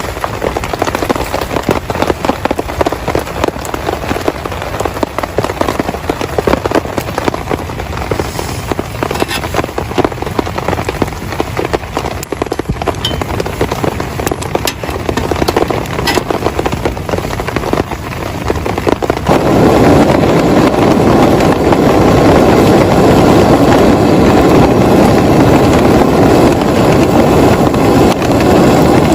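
Heavy rain pattering on a tarp or tent in a dense crackle of drops. About two-thirds of the way through it jumps abruptly to a louder, steady rush of downpour.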